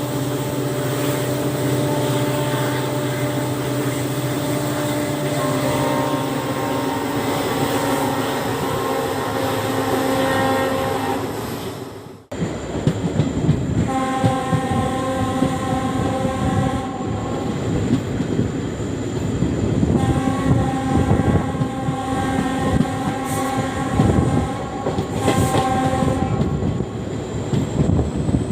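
WDP4B diesel locomotive with its EMD 16-cylinder 710G3B engine running with a steady low rumble and whine. After an abrupt cut about twelve seconds in, the locomotive's horn sounds twice, a short blast then a long one of about six seconds, over the rumble and clatter of the moving train.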